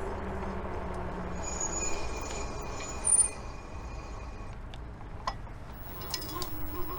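Ecotric fat-tire electric bike rolling on pavement: steady tyre and wind noise, with a low hum that stops about a second and a half in. A thin high squeal follows, peaking briefly about three seconds in, from its newly fitted brakes, which stay loud even after bedding in. A few sharp clicks come near the end.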